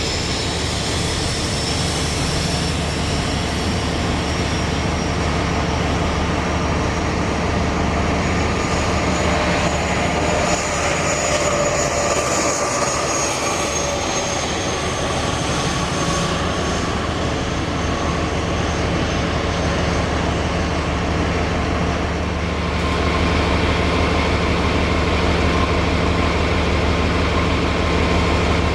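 A train's engine or traction motors running steadily: a low hum with a high-pitched whine over it, growing louder a little over twenty seconds in.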